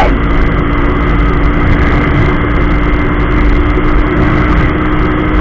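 Small motorcycle engine held at full throttle near its top speed of about 120 km/h, geared with a 14/32 sprocket set, giving a steady drone that neither rises nor falls. Heavy wind rush on the microphone runs underneath it.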